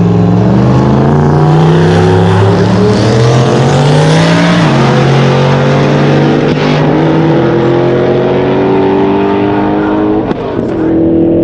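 Twin-turbo Corvette V8 accelerating hard, loud throughout, its engine note climbing in pitch and dropping at a gear shift about four and a half seconds in, then climbing again, with a brief dip near the end.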